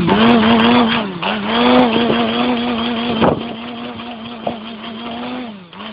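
Small-displacement motorcycle engine held at high revs against its rev limiter, the pitch staying flat with brief dips. The revs fall away near the end.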